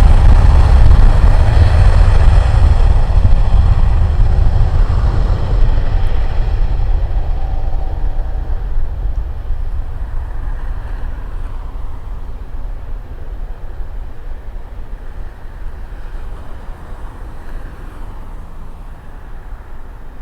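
Jet airliner engines running loud, a deep rumble with a high whine, fading steadily.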